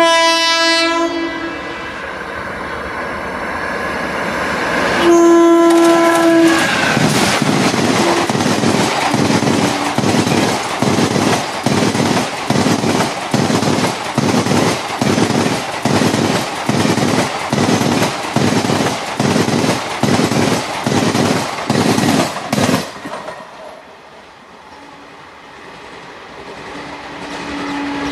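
Passing express train hauled by a WAG-7 electric locomotive: two air-horn blasts, one at the start and one about five seconds in. Then the blue ICF coaches' wheels clatter over the rail joints in a steady rhythm of about three beats every two seconds. The clatter stops abruptly a little before the end and gives way to a quieter rumble.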